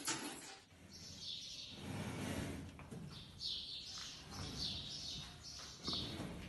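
Small birds chirping over and over in short high calls, several a second, with a couple of sharp knocks and a low rustle in between.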